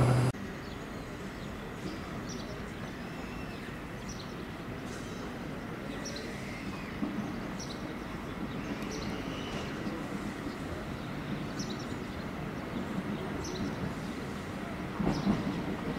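A CP series 3400 electric multiple unit approaching from a distance, its running noise growing louder about a second before the end, over steady station background with small birds chirping.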